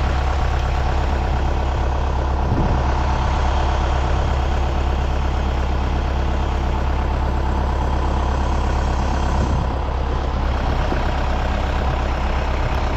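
A heavy vehicle engine running steadily at an even speed, with a strong deep hum.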